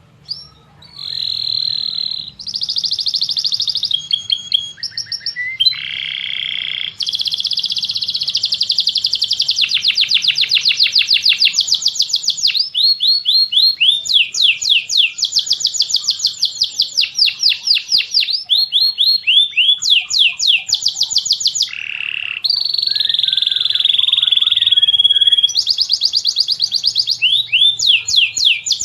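Bird-training recording of tengkek buto, cililin and canary songs layered together: continuous high chirping and trills with fast runs of repeated sweeping notes, starting suddenly out of silence. A faint low hum runs underneath.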